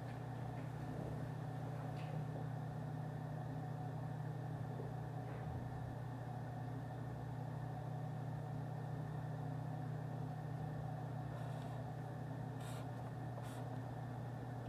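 Steady low office room hum, an unchanging drone like ventilation, with a couple of faint light clicks near the end.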